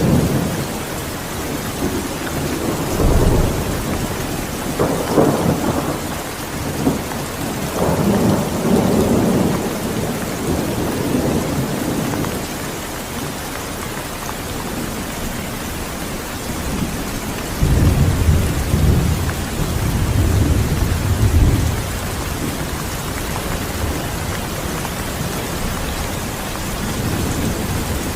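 Steady rain hissing, with thunder rolling twice: a long rumble starting a few seconds in, and a heavier one past the middle.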